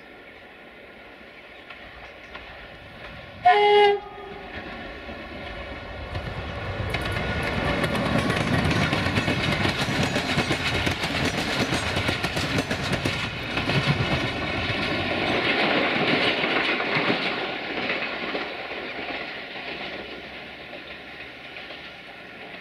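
A locomotive horn sounds one short blast. Then a train passes, its wheels clattering over the rail joints, growing louder and then fading away.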